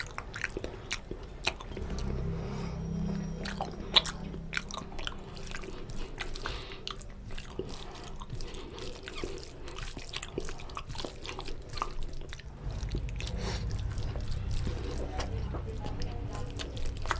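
Wet, close-miked chewing and lip-smacking from a man eating oily mutton curry and rice by hand, with sticky squelches as his fingers work the gravy-soaked rice. It is a dense run of small mouth clicks and smacks, with one sharp smack about four seconds in.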